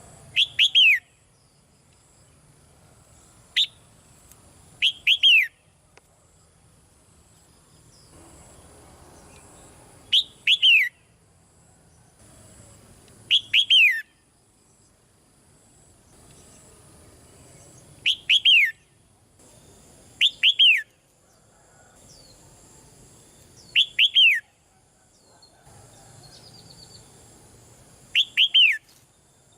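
Red-whiskered bulbul singing short, clear whistled phrases, each a few quick falling notes, repeated about nine times with gaps of a few seconds between them.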